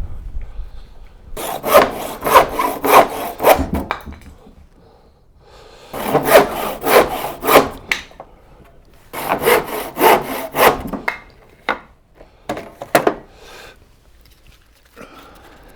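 A hand saw cutting wood: three runs of quick back-and-forth strokes with short pauses between them, then a few last strokes.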